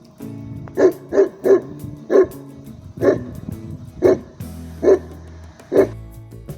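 A dog barking about eight times, short single barks spaced half a second to a second apart, over background music.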